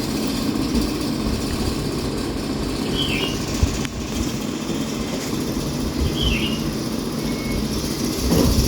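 A motor or engine running steadily with a low drone, with a short high chirp about three seconds in and again about six seconds in.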